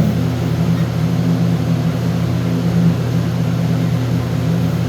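Steady low mechanical hum from running machinery, unbroken and even in level.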